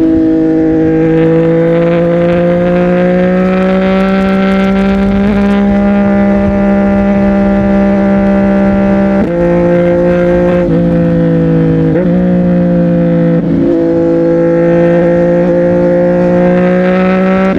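CFMOTO 675NK's inline three-cylinder engine through a Burnout titanium exhaust, running steadily while riding, its pitch rising slowly at first. In the middle it dips briefly and recovers a few times before settling steady again.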